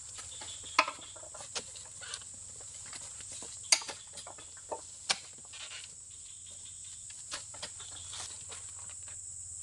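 Steady high-pitched insect chirring, with a handful of short sharp sounds scattered through it, the loudest about four and five seconds in.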